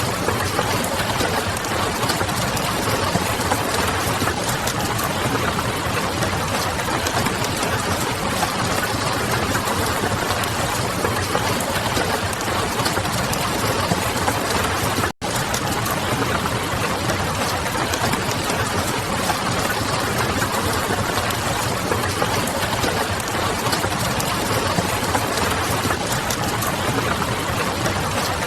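Wood fire crackling mixed with steady rain and a low constant hum of distant city traffic. The sound cuts out for a split second about halfway through.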